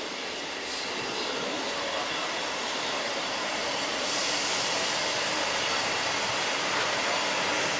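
A train on the line, a steady rushing rail noise that grows gradually louder as it approaches, with a higher hiss joining about four seconds in.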